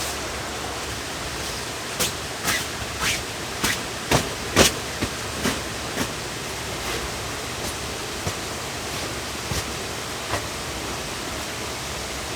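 Steady rushing of water from rain and a rain-swollen stream, with a string of sharp taps between about two and six seconds in that thin out to a few later ones.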